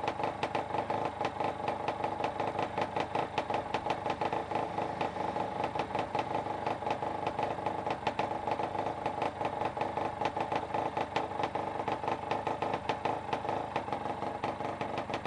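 Freshly rebuilt two-stroke engine idling steadily on its first start, with a whirring noise that the owners put down to a bearing working and take to be normal.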